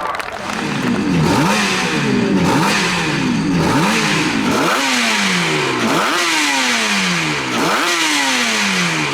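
Motorcycle engine revving again and again, each time the pitch jumping up sharply and then falling away, about once a second.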